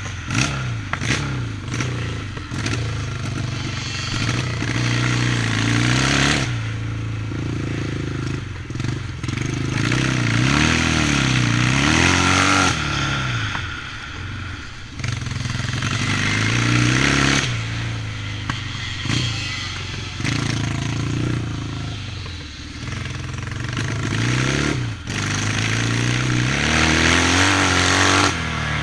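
Yamaha 650 motocross bike's engine revving up and dropping back again and again as the rider accelerates and backs off, its pitch rising and falling several times.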